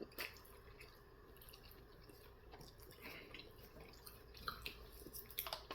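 Faint, wet mouth sounds of someone chewing butter-sauced chicken nuggets: scattered soft clicks and smacks, a little more frequent near the end.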